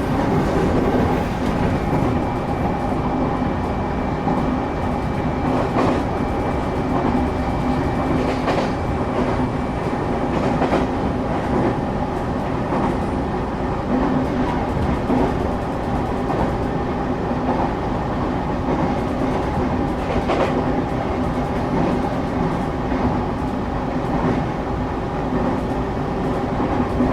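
Cabin noise of a moving train: a steady rumble of wheels on the rails with a constant low hum. A few sharp clicks from the rail joints come through at scattered moments.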